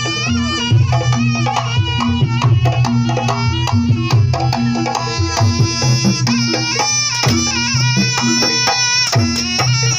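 Live jaranan music: hand drums play under a wavering high melody, with a low note repeating at an even beat.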